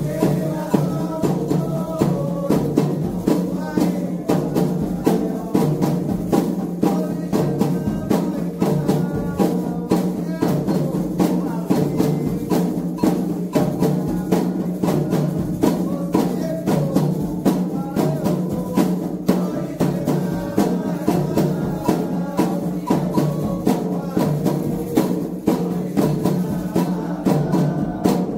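Candomblé ritual music: hand drums and other percussion beating a fast, steady rhythm, with voices singing over it.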